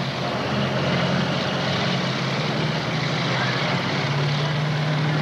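Pulling tractor's turbocharged diesel engine running hard at steady high revs, a loud engine note under a dense rush of noise.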